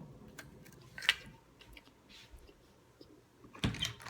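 Faint, irregular chewing and mouth sounds, with scattered soft clicks and a louder burst of noise near the end.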